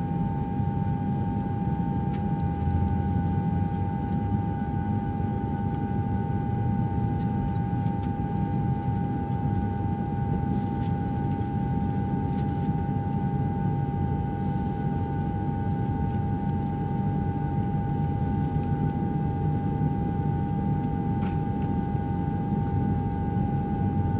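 Steady running noise from a parked jet airliner: a low rumble under a constant high-pitched whine that holds one pitch throughout.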